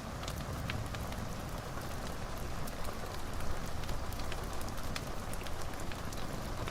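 Wood fire burning in a fireplace: a steady hiss and low rumble with many small, irregular crackles and pops.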